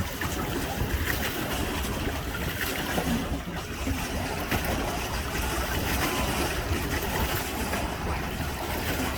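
Steady rush of wind and lake water around a pedal boat out on the water, with low wind rumble on the microphone.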